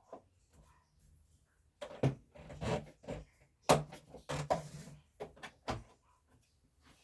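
A series of knocks, bumps and clatters from things being handled, with a cluster of sharp knocks about two to six seconds in; no vacuum motor is running.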